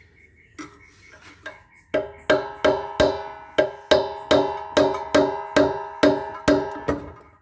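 Rapid hammer blows on a metal part of a solar inverter being broken up for scrap. About a dozen blows come two to three a second, starting about two seconds in, and each rings on with a clear metallic pitch.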